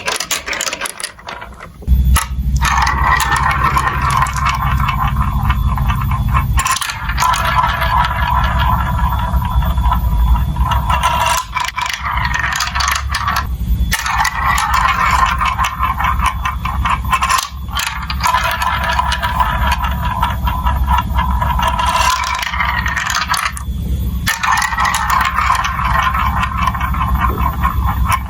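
Marbles rolling and clattering through a plastic building-block marble run: dense clicking and rattling over a steady rolling rumble, starting about two seconds in.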